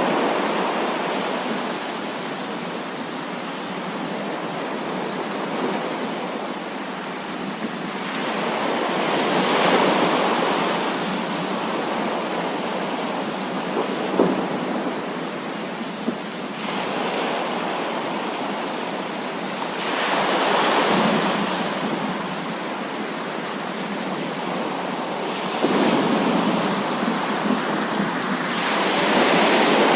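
Heavy rain falling steadily, with rolls of thunder swelling and fading several times, roughly ten seconds apart. Two sharp ticks come about midway.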